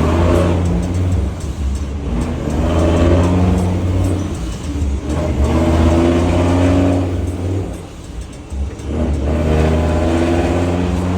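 Scania truck engine being revved repeatedly, rising and falling in pitch about four times with short easings in between.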